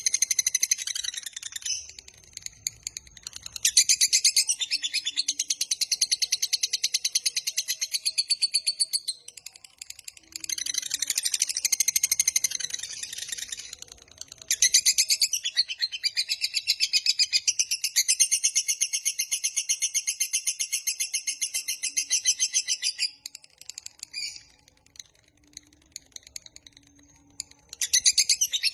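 Lovebird singing its long, rapid, high-pitched chattering trill (ngekek panjang), in several bouts of a few seconds each with short pauses between them, the longest running about eight seconds.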